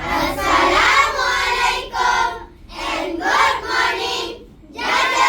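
A group of schoolchildren voicing lines in unison in a choral speaking performance. The voices come in long phrases, with short breaks about two and a half seconds and four and a half seconds in.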